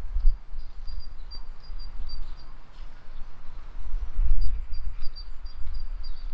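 A small songbird singing two runs of quick, thin, high repeated notes, the first near the start and the second about four seconds in, over a low, uneven rumble.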